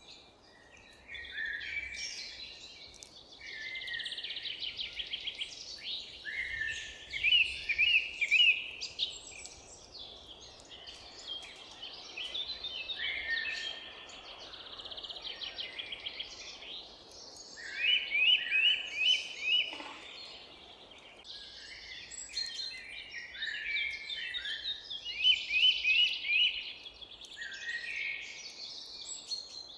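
Several songbirds singing and calling at once, with rapid repeated chirps and trills coming in bursts every few seconds, over a faint steady background hiss.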